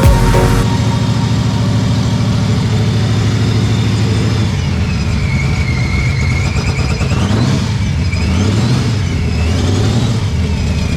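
Car engine running with light revving, its pitch rising and falling, and a high whine that sweeps up and down with the revs.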